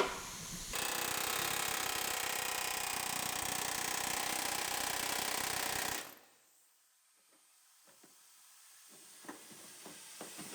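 A shop power tool running steadily with a fine rapid flutter for about five seconds, then cutting off abruptly, followed by a few faint clicks.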